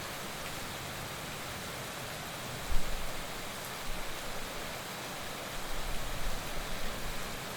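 Heavy rain falling steadily in an even hiss, with a sudden low thump about three seconds in and uneven low rumbling near the end.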